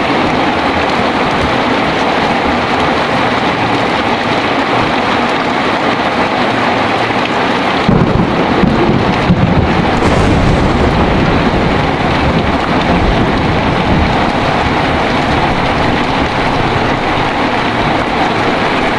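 Heavy rain pouring steadily. About eight seconds in, a roll of thunder rumbles for several seconds and then fades back under the rain.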